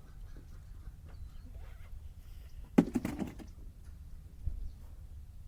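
A sharp clack almost three seconds in, followed by brief rattling, with a few small faint clicks and a smaller knock later, over a low steady hum.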